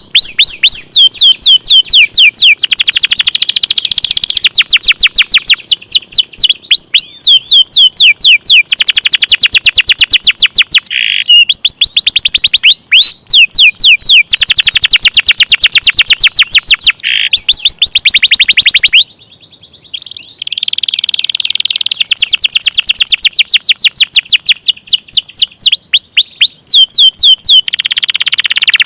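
Canary singing long rolling trills: fast runs of repeated, sharply falling high notes, many to the second, with a short pause about two-thirds of the way through.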